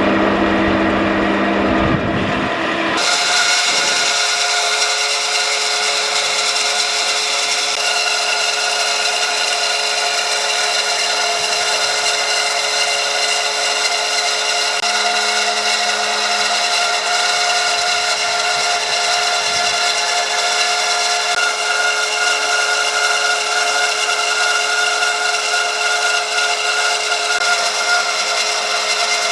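A power tool working wood, running at a steady pitch with a constant whine and grinding hiss. The sound changes abruptly about three seconds in and then holds unchanged.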